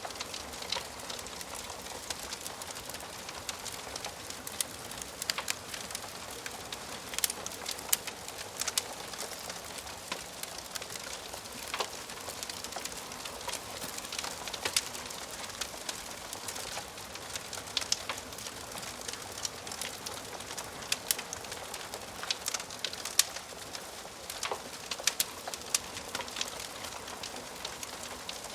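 Wood fire in a fireplace crackling: a steady soft hiss with frequent irregular sharp pops and snaps.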